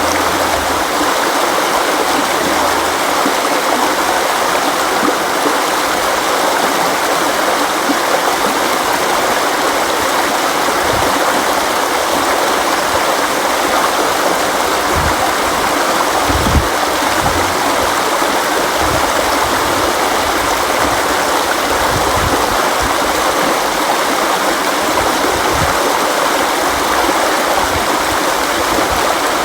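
River water flowing and rushing over rocks, a steady, dense rush with occasional brief low thuds of water in the current.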